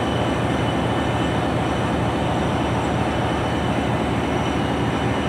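A loud, steady engine or machine running continuously, with a fast low pulsing and a few steady high-pitched tones.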